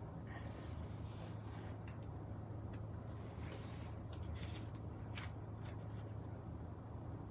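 Paper and card being handled at a craft table: soft rustles and a few light clicks, over a steady low hum.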